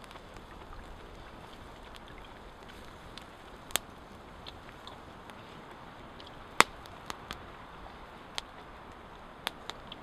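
Campfire crackling: sharp pops at irregular moments over a steady low hiss, the loudest pop a little past halfway.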